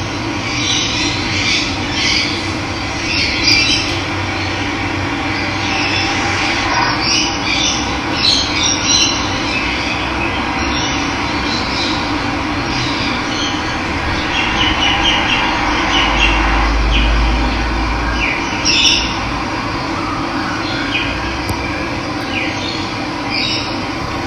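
Running water rushing steadily, with many birds chirping and calling over it.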